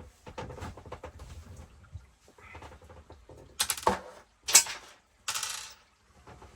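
Small metal parts and tools clinking and clattering while being handled on a workbench: light ticks at first, then three louder clattering rattles in the second half, the loudest a little past the middle.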